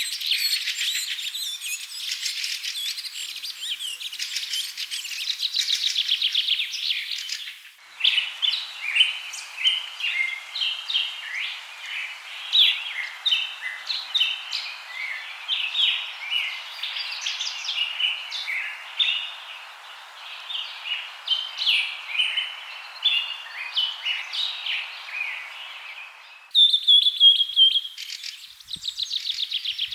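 Birds chirping. First comes a dense, rapid trilling chorus. About 8 seconds in it switches abruptly to many separate short chirps over a steady hiss, and near the end a different fast trilling call starts suddenly.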